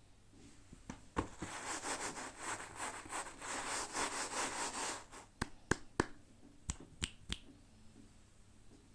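Packaging being handled or opened: about four seconds of rapid crackling rustle, followed by six sharp separate clicks.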